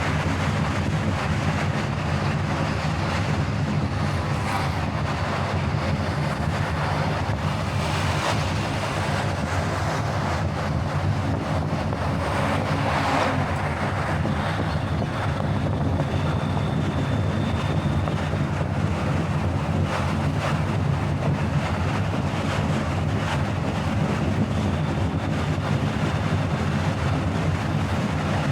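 Steady road and engine rumble of a moving car, with some wind noise.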